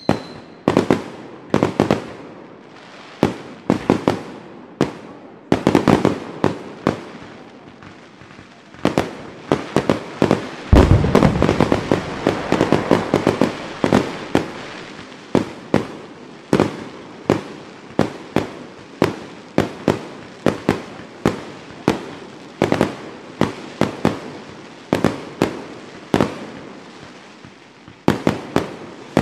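Fireworks grand finale: a steady run of aerial shell bursts, sharp bangs coming one after another. About nine seconds in they crowd into a dense barrage of overlapping bangs and crackling, loudest at about eleven seconds.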